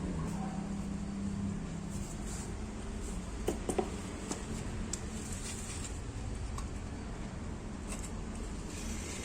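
Katsu 12-inch industrial exhaust fan, refitted with a used air-conditioner outdoor fan motor, running with a steady low rumble of moving air. A low motor hum fades out in the first second and a half, and a few light clicks come in the middle.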